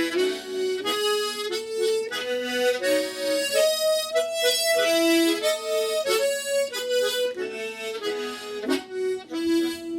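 Solo harmonica playing a Slow GoGo rhythm exercise: a scale climbing and then coming back down, each note alternating between octave-and-fifth chords and fifth and third bass notes. The notes change several times a second, and the playing stops just at the end.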